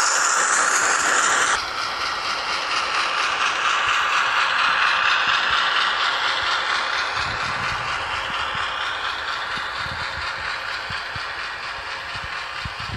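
Hornby Class 08 model shunter running slowly under DCC sound: the decoder's diesel engine sound plays through the model's small speaker, mixed with the whir of its motor and gears. The sound shifts suddenly about a second and a half in, then whines with slowly gliding pitch and grows gradually quieter, dropping away sharply at the very end.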